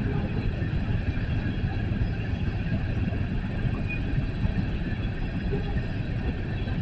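Freight coal train on the move, a steady rumble without pause.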